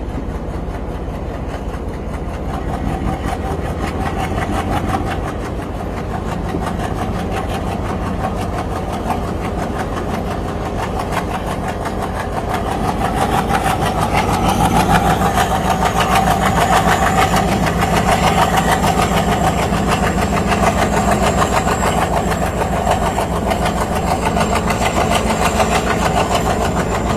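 Train locomotive engine running with a rapid, even throb, growing louder about halfway through.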